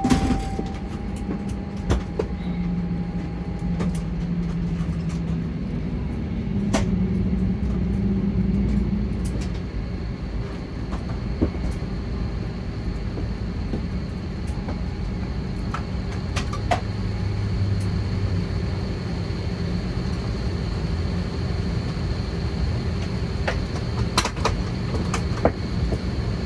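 Cabin noise of an Airbus A320 on the ground after landing, most likely taxiing: a steady low rumble with a faint steady whine, broken by scattered short clicks and knocks.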